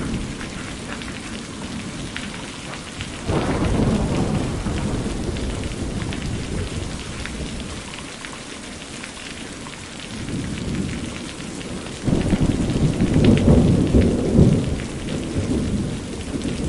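Rain falling steadily, with the patter of drops on surfaces, while deep rolls of thunder swell up suddenly about three seconds in and again louder near the end.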